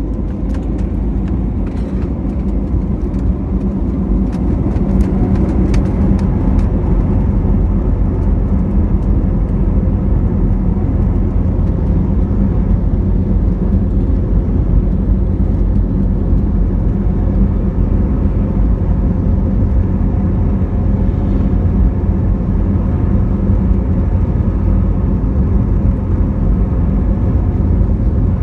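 Airbus A320neo's CFM LEAP-1A turbofans at takeoff thrust: a loud, steady low rumble that builds over the first few seconds and then holds, with light rattling clicks during the first several seconds.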